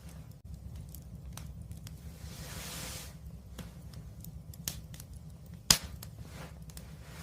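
Wood fire crackling, with scattered small snaps over a steady low rumble, a soft hissing swell about two to three seconds in, and one sharp, loud pop near the end.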